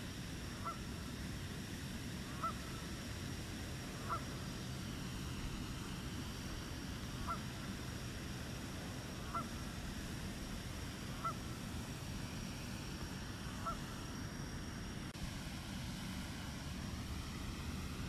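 A bird gives short single calls, seven in all, about every two seconds, over a steady low background rumble. A faint rising hum comes in near the end.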